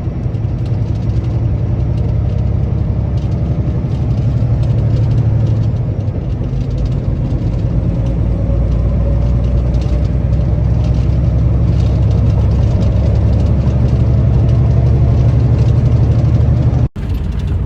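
Steady low drone of engine and road noise heard from inside a vehicle's cab cruising on a highway. It cuts off abruptly near the end.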